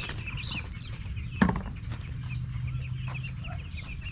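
A flock of 14-day-old broiler chicks peeping continuously, with a single sharp knock about a second and a half in.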